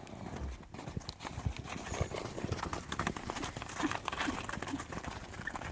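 Horses running about, their hooves giving many irregular hoofbeats.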